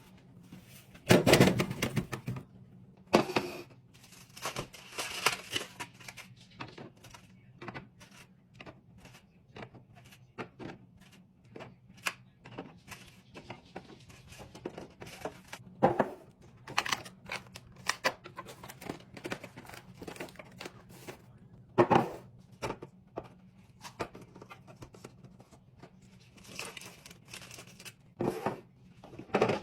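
Groceries being unpacked and put away in a fridge: plastic packaging crinkling and tearing, among many light clicks and knocks of containers being set down, with a few louder knocks.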